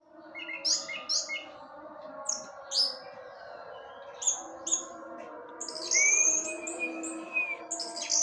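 Orange-headed thrush (anis merah) singing: a run of short, quick chirping phrases, then a long, level whistled note about six seconds in.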